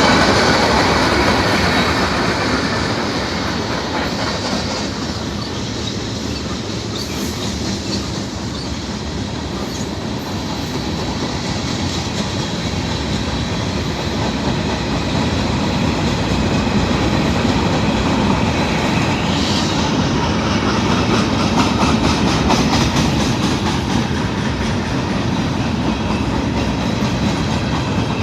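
Train rolling past with a steady rumble of wheels on rails and a rhythmic clickety-clack of wheels over the rail joints, which grows louder in the second half.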